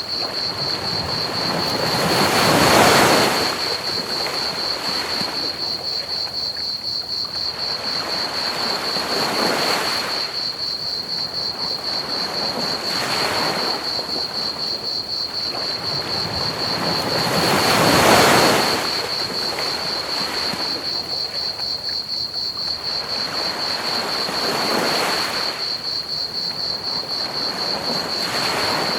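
Ocean waves washing onto a beach in slow swells, the biggest breaking a few seconds in and again just past the middle, over a steady hiss of pink noise. Crickets chirp steadily at a high pitch throughout.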